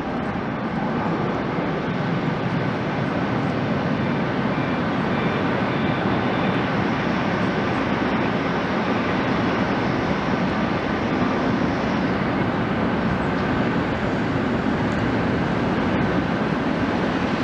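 Jet engines of a Boeing 777-300 airliner running steadily, an even jet noise with a faint high whine.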